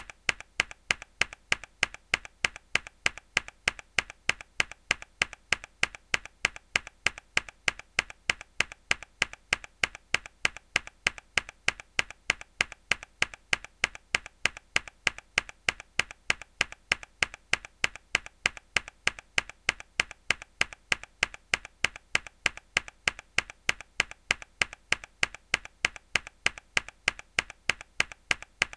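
A single mechanical keyboard key pressed hard again and again, each press a sharp click, evenly spaced at about three to four a second.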